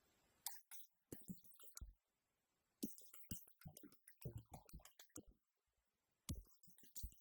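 Faint, irregular clicks and soft taps separated by short silences, with a couple of duller knocks.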